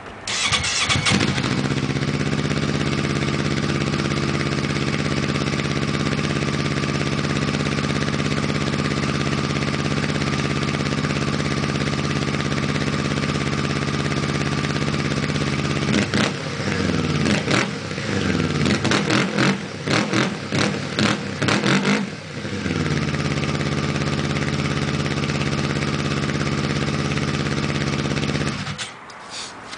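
2007 Yamaha FX Phazer snowmobile's four-stroke twin starting and idling steadily through a shortened Cobra F1R exhaust with welded-in half-washer baffles. About halfway through it is revved in a run of quick blips for about six seconds, then settles back to a steady idle and shuts off near the end.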